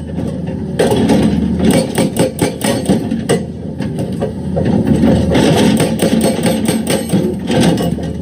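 Excavator engine running steadily under load while its bucket works rock, with many irregular knocks and scraping clatters of stone.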